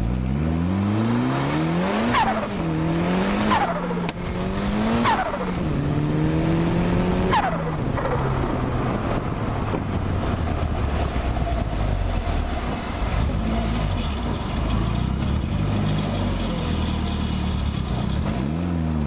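Locost kit car's turbocharged four-cylinder engine accelerating hard through the gears, its note climbing and dropping about four times in the first eight seconds, with a sharp falling whistle at each gearchange. After that it runs on at steadier revs with smaller rises and falls.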